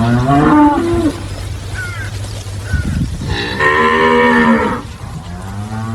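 Cows mooing: a call at the start, a louder, longer one around the middle, and another rising in pitch near the end.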